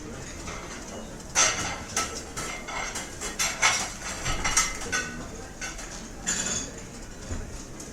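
Plates and cutlery clattering and clinking, a rapid run of ringing knocks about a second and a half in that thins out after five seconds, with one more clatter near the end, over a steady room hum.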